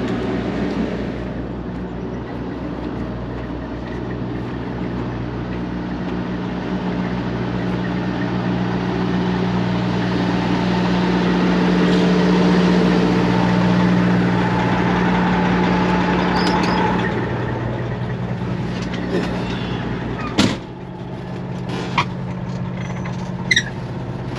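Semi-truck diesel engine running steadily, heard from inside the cab, growing louder in the middle and dropping off suddenly about four seconds before the end, followed by a few sharp clicks.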